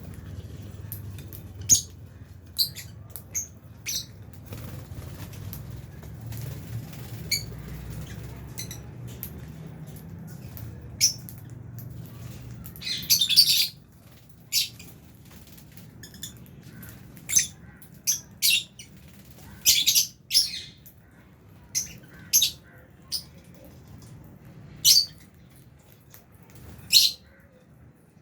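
Lovebirds in an aviary giving short, sharp, high-pitched chirps and squawks at irregular intervals, with a dense flurry about halfway through. A low hum sits underneath in the first half and stops about halfway.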